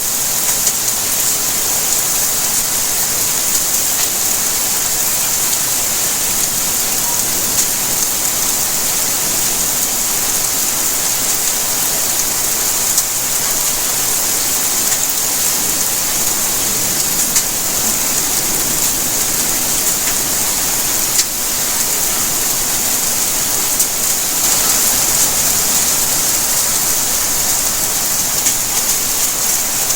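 Steady rain falling and pattering on surfaces, an even hiss with scattered individual drop taps.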